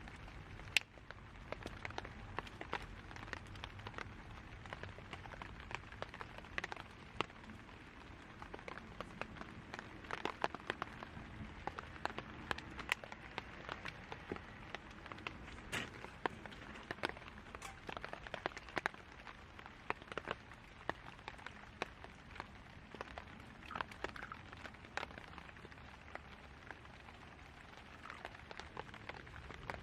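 Rain pattering steadily, with many irregular sharp ticks of drops.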